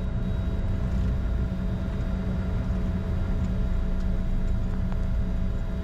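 Steady low drone inside the cockpit of a Bombardier Challenger 605 taxiing after landing, its turbofans at idle with the cabin air blowing, holding a few steady whining tones; a few faint ticks toward the middle.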